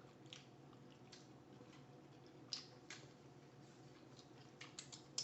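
Near silence broken by faint, scattered mouth clicks and smacks of someone eating chicken wings. A few sharper clicks come near the end.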